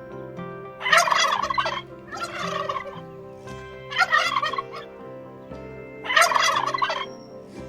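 Turkey gobbling: four gobbles, each under a second long, spaced a second or two apart.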